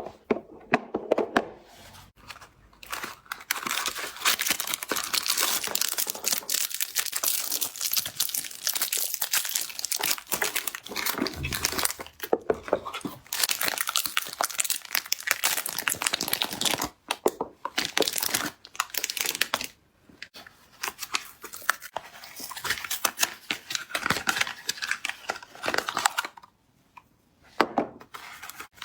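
Packaging of soap cubes being torn open and crinkled by hand, a near-continuous rustling and tearing with a few short pauses.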